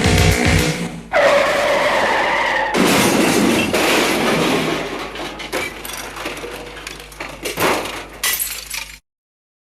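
The music cuts off, then a screech like a skidding tyre is followed by a loud crash with glass shattering and debris rattling as it dies away.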